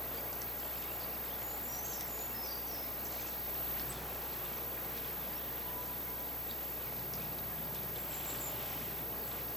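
Steady rushing outdoor noise with a few faint, high bird chirps about two seconds in and again near the end.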